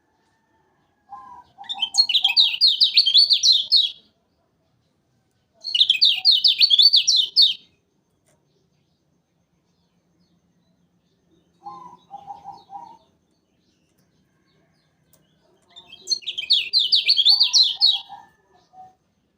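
Kecial kuning, a yellow white-eye from Lombok, singing three loud, fast trilled phrases of rapidly repeated high notes, each two to three seconds long. Softer, lower chirps come between them, once on their own about twelve seconds in.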